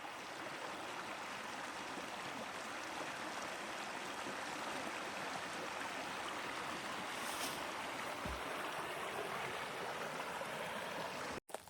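Steady rush of a flowing stream, running water with no break or change.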